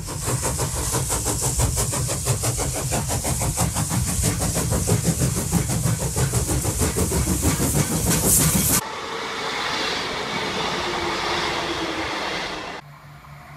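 A train passing at speed with a fast, even clatter of wheels. It cuts off abruptly about two-thirds of the way in, giving way to the quieter steady running of a diesel multiple unit with a faint hum, then cuts again to a lower hum near the end.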